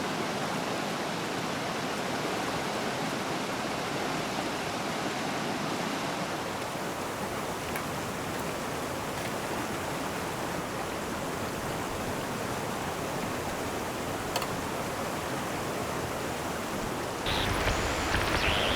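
Steady rushing of a mountain river flowing past. Near the end, a louder sound takes over.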